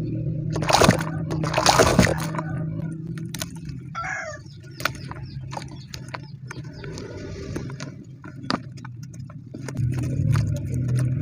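Lumps of cement being crumbled and crushed by hand, with two loud crunches about a second apart near the start and then lighter crackling and gritty clicks, over a steady low hum.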